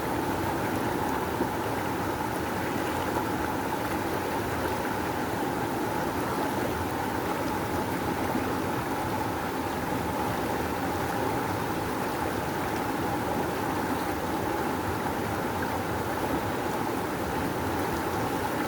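Rushing river: a powerful flow of water making a steady, unbroken rush.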